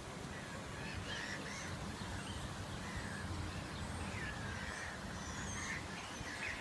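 Birds calling: many short, scattered chirping calls over a low rumble.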